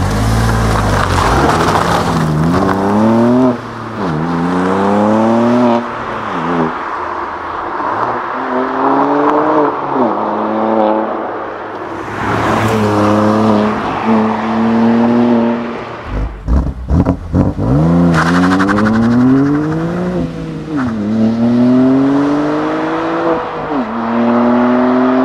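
BMW M2 CS's 3.0-litre twin-turbo straight-six accelerating hard through the gears, several times over. The revs climb and then drop at each upshift, and around the middle there is a quick run of sharp cracks and short revs.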